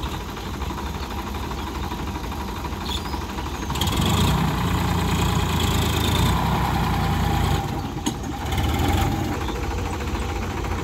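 Tractor engine running with a steady low rumble; about four seconds in it grows louder and rougher for a few seconds, dips briefly, then comes up again.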